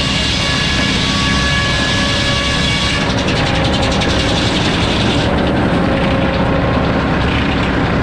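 Circular sawmill running an F pattern inserted-tooth blade with 52 teeth, a steady loud whine over machinery noise. About three seconds in, the tone of the whine drops and a fine rapid chatter comes in.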